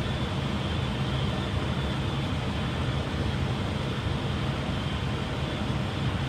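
Steady flight-deck noise of an airliner on short final approach: airflow and engines as an even, unbroken rush.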